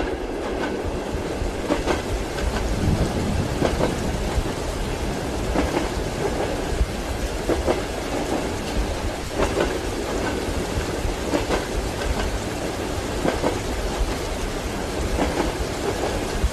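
Ambience inside a moving train carriage. Wheels rumble on the track with a knock from the rail joints about every two seconds, under a steady hiss of rain.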